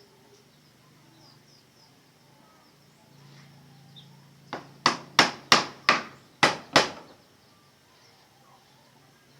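A hammer striking wood in a quick run of seven blows, about three a second, a little over four seconds in.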